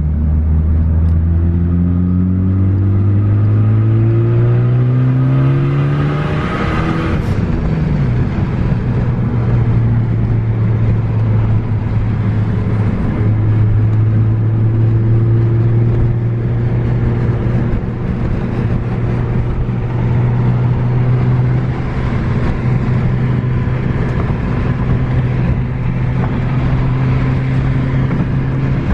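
Turbocharged 2.0 L four-cylinder Mk3 Ford Focus ST, running a big hybrid turbo at about 26 psi, accelerating hard from inside the cabin, its pitch climbing for about seven seconds. The throttle then lifts with a brief hiss from the blow-off valve venting, and the engine settles into a steady drone.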